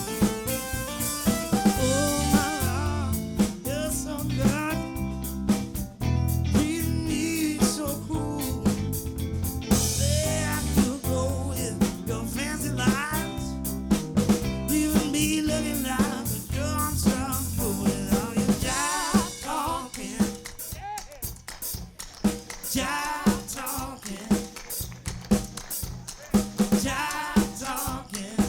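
Live soul band playing an instrumental passage: a drum kit keeps a steady beat under bass and melodic instruments. About two-thirds of the way through, the heavy bass drops out, leaving the drums and higher instruments.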